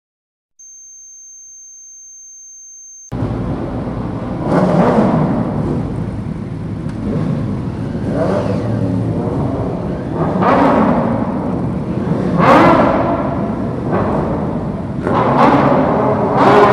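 A steady high-pitched tone, then from about three seconds in a group of superbike engines running together, with one being revved hard every few seconds, rising and falling in pitch. The loudest rev comes about two-thirds of the way through.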